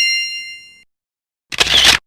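A bright bell ding, struck once and ringing with several high, clear tones that fade out within about a second. About a second and a half in, a short, harsh burst of noise from another effect starts.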